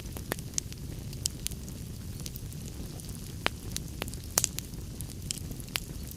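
Log fire crackling: irregular sharp pops and snaps over a steady low rumble of burning, with the loudest pops about three and a half and four and a half seconds in.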